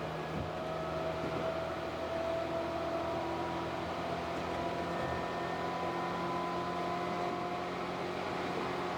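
Tobu 8000 series electric train under way, heard on board: traction motors holding steady tones that drift slowly in pitch over a constant rolling rumble.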